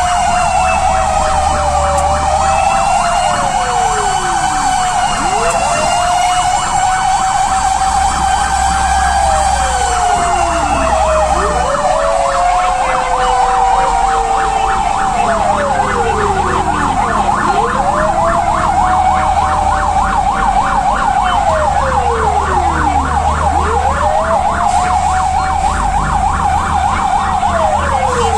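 Fire truck sirens sounding together while responding: a fast warbling yelp overlaps slower wailing sweeps that rise and fall about every two seconds, over the low rumble of the trucks' engines.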